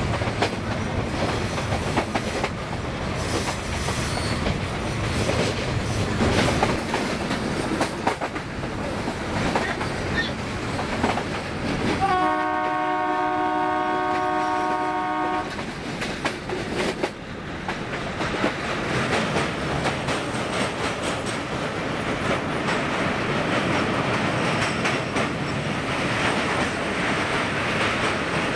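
Metre-gauge passenger coaches running over the track, wheels clacking and the coach rattling, heard from an open coach doorway. About twelve seconds in, the YDM4 diesel locomotive's horn sounds once, a steady chord lasting about three seconds. Near the end the train rolls onto a steel truss bridge.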